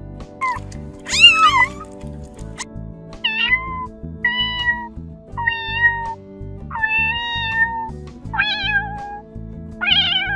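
A kitten meowing over and over, about eight high meows roughly a second apart, the second one the loudest. Soft background music plays underneath.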